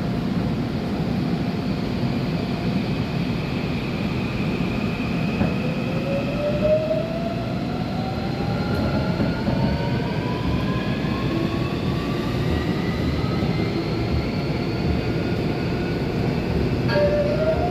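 Incheon Metro Line 1 electric train running, heard from inside the car: a steady rumble of wheels on track, with the traction motors' whine rising steadily in pitch as the train picks up speed. A new tone starts near the end.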